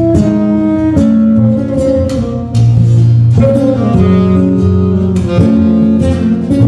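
Live instrumental music from a small trio, with strong low notes under sustained melody notes and sharp plucked note attacks.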